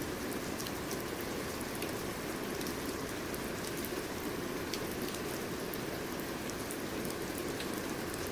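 Steady rain falling, a dense even patter with scattered sharper drips of individual drops.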